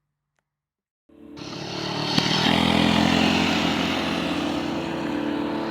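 Small gasoline engine running steadily at speed, cutting in suddenly about a second in after silence.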